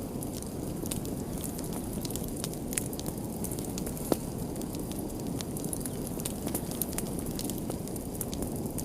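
Wood fire in a fireplace crackling: a steady low rumble of flames with scattered small pops, and one sharper pop about four seconds in.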